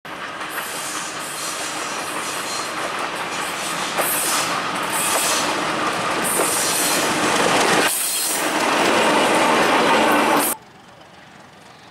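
An old diesel locomotive hauling a passenger train passes close by: its engine runs under load, then the coaches' wheels roll along the rails, the sound building as the train goes past. The sound cuts off suddenly near the end, leaving a much quieter background.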